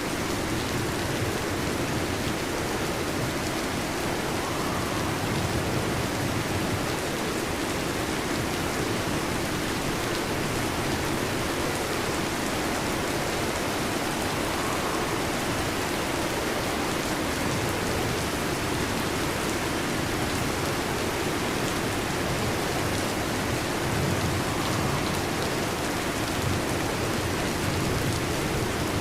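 Steady heavy rain falling on a roof, an even hiss of drops without a break.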